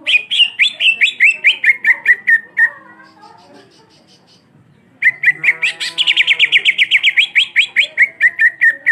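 Greater green leafbird (cucak ijo) singing its rolling song: two fast runs of sharp repeated notes, each run slipping lower in pitch as it goes. A gap of about two seconds separates the runs, and the second run is longer and faster than the first.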